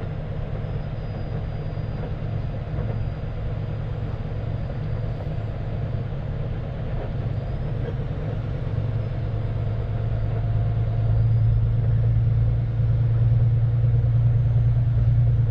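Heavy tow truck's diesel engine pulling a tractor-trailer on the road, a steady low drone that grows louder past the middle as it takes on more load or speed.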